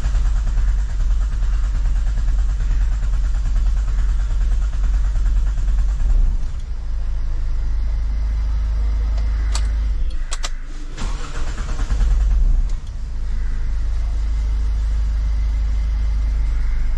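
Toyota Etios diesel engine being cranked on its starter with a fast, regular beat for several seconds before it catches and settles into a steady idle. The long crank is the hard-starting fault, which the mechanic traces to heavy back leakage from the number-two injector.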